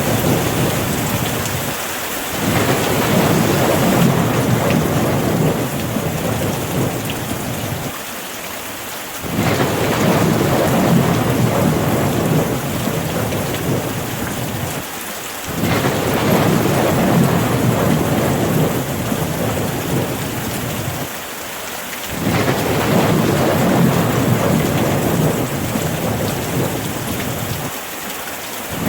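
Steady rain with low rumbles of thunder that swell and die away about every six or seven seconds.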